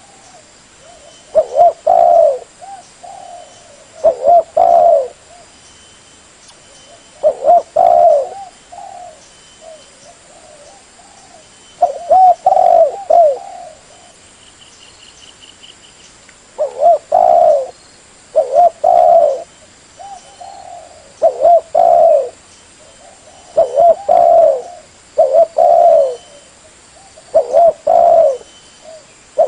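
Spotted dove (tekukur) cooing: repeated phrases of a few low coos every few seconds, with softer coos between them, coming closer together in the second half. This is a lure call of the kind played to draw wild doves in.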